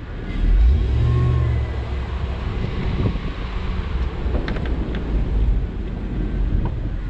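Snowplow pickup truck's engine running and revving, with a swell in revs about half a second in and a few faint clicks and knocks.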